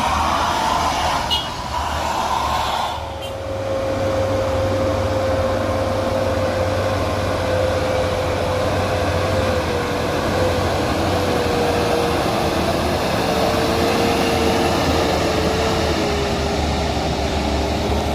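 Heavy truck labouring up a steep grade in low gear: a deep engine rumble under a steady whine that slowly drops in pitch as the truck loses speed on the climb.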